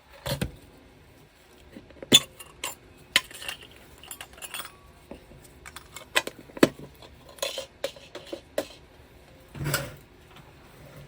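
Hard objects clinking, clattering and knocking in an irregular run as things are picked up and handled while the heat gun attachment is fetched, with a longer rustle near the end.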